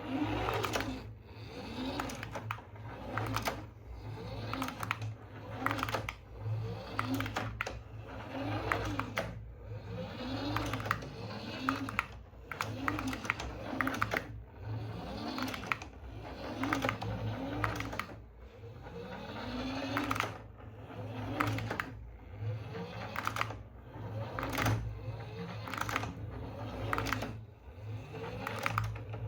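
Small electric motor of a remote-control toy vehicle whirring, its pitch rising and falling again and again as it speeds up and slows, mixed with frequent sharp clicks and plastic knocks.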